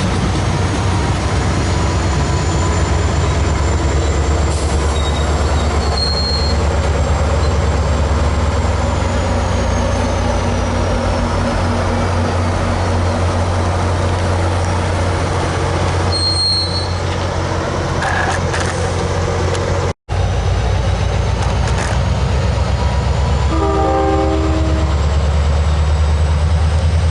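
Diesel locomotive running close by with a steady, loud low rumble. A short horn-like toot sounds about 24 seconds in.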